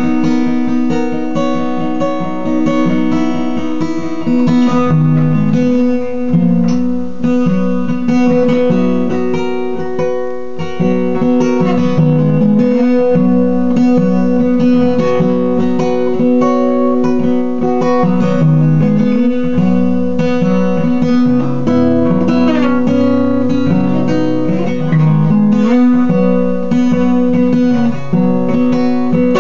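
Acoustic guitar playing the instrumental introduction to a slow song.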